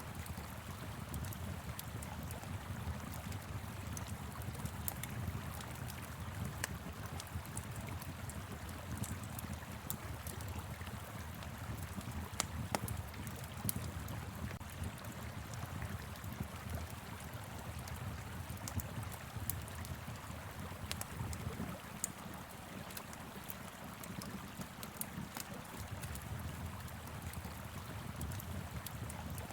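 Wood fire crackling with frequent small pops over the steady rush of a flowing river.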